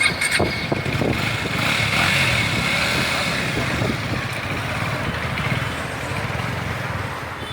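Motorcycle engine running steadily, with a pulsing low rumble and a few clicks right at the start.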